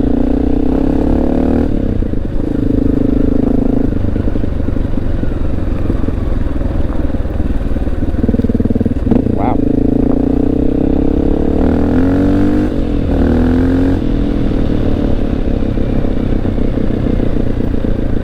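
Honda XR650L's air-cooled single-cylinder engine running while under way, its pitch dropping and climbing again several times with the throttle.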